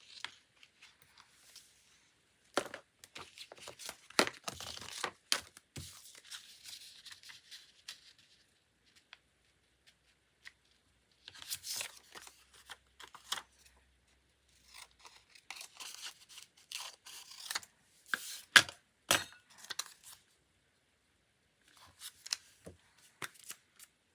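Paper and sticker materials handled close up during diary decorating: crackly tearing and peeling sounds in four bouts, with a few sharp taps, the loudest about three-quarters of the way through.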